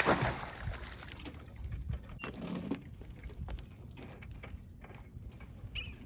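A splash right at the start as an empty crab pot is dropped back into the water, fading over about a second, then faint knocks and rustles of handling.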